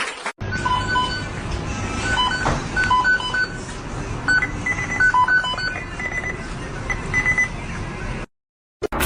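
A quick series of short, flat electronic beeps, some two-toned, over a steady noisy background. The sound cuts off abruptly near the end.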